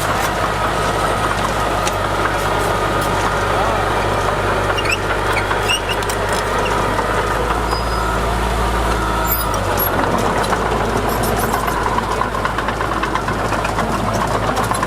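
Heavy diesel engine of earthmoving machinery running steadily, with a deeper swell in the low end around eight to nine seconds in.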